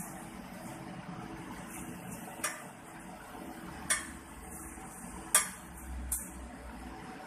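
Metal clinking sharply four times, spaced a second or so apart, over a steady low hiss.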